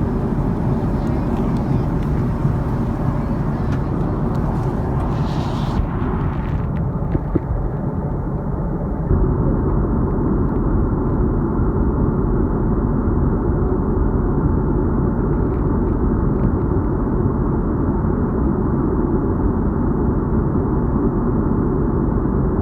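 Steady roar of an Airbus A310-304's engines and rushing air heard inside the passenger cabin during descent, with a brief hiss about five seconds in.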